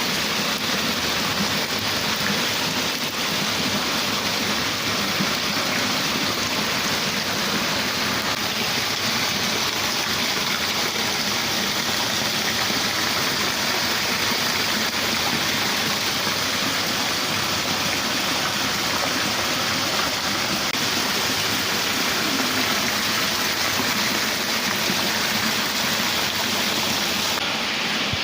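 Heavy tropical-storm rain pouring steadily, an even hiss with no let-up.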